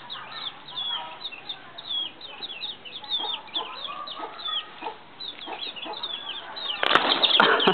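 A flock of domestic chicks peeping constantly in short, high, falling notes, with hens clucking lower down. About seven seconds in comes a sudden loud scuffle of knocks and rustling as the chicks are startled and scatter.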